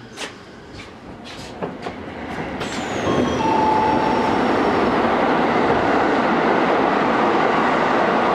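Train noise heard from aboard a railcar: a few knocks, then about three seconds in a loud steady rumble of rail noise builds up, with a brief high whistle that falls in pitch.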